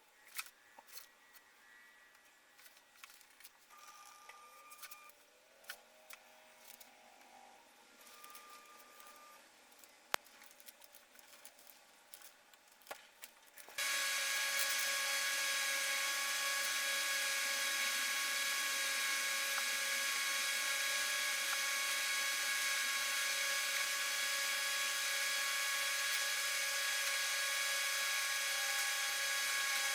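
Light clicks and knocks of tools and wood being handled, then about halfway through a small high-speed power tool starts and runs steadily with a high whine.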